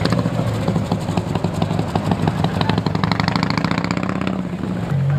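A performance car's engine accelerating with a loud exhaust, its pitch climbing gradually, then the throttle lifts suddenly a little past four seconds and the engine drops to a lower, steadier note.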